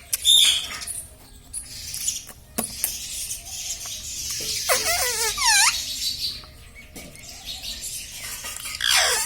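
Indian ringneck parrot calling: high chirps and shrill calls, with a quick run of falling whistled notes about five seconds in and a long falling call near the end.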